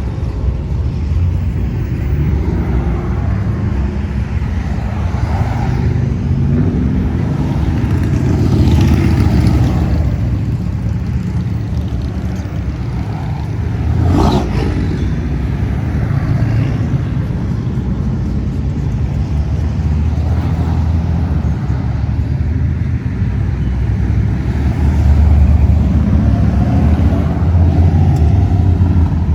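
Classic cars cruising past, their engines making a steady low rumble that swells and fades as each car goes by. A brief sharp sound comes about halfway through.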